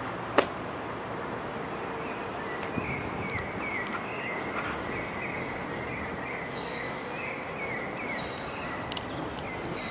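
A small bird chirping repeatedly in short notes over steady outdoor background noise, with one sharp click about half a second in.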